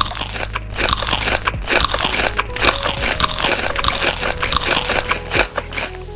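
Crunchy food being bitten and chewed close to the microphone: a rapid, continuous run of crisp crunches.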